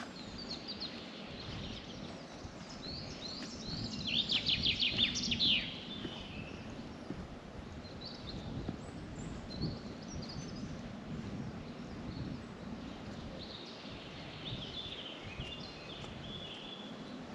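Songbirds singing outdoors, with a loud burst of fast repeated high notes about four seconds in and fainter calls later, over a steady low background noise.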